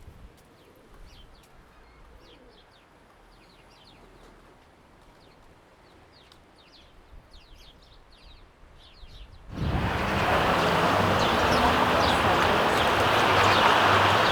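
Sparrows chirping, a quick scatter of short, high, faint chirps. About two-thirds of the way through, a loud, steady rushing noise cuts in suddenly and drowns them out.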